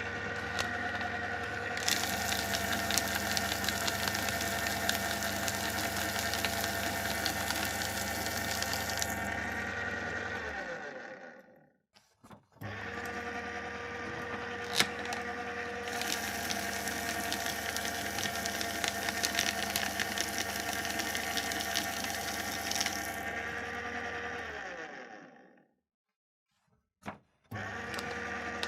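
Electric paper shredder running: the motor hums steadily while a dense rasp of shredding sits over it for several seconds at a time. It winds down and stops about 11 seconds in, starts again and shreds once more, winds down and stops about 25 seconds in, then starts a third time near the end.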